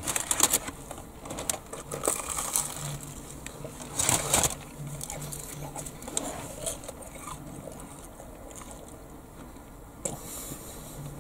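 A man chewing a mouthful of hot, crispy deep-fried battered pizza, with scattered crunching and clicking from the batter and mouth. A short, louder burst of noise comes about four seconds in, and another near the end.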